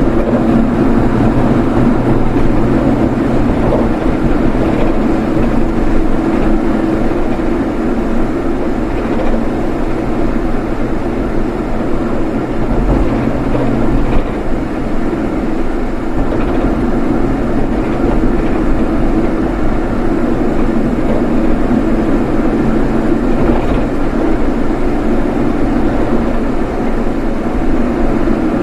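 A vehicle driving, with steady, unbroken engine and road noise.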